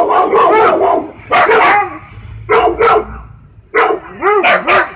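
A dog barking repeatedly in short clusters of quick barks, with brief pauses between.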